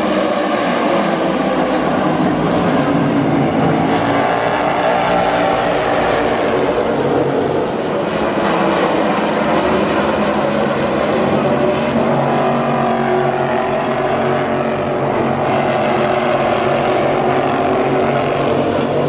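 A field of NASCAR Cup Series stock cars running on track, their V8 engines a loud, dense mix of notes that swell and fade, rising and falling in pitch as the cars go by.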